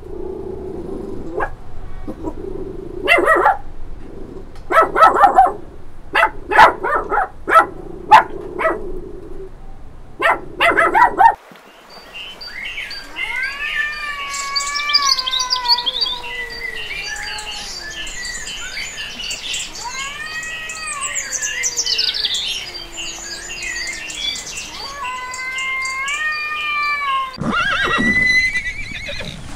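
Puppies whimpering and yelping in short, repeated calls for the first ten seconds or so. Then long rising-and-falling animal calls over dense high bird chirping. Near the end comes a loud call that fits a horse's neigh.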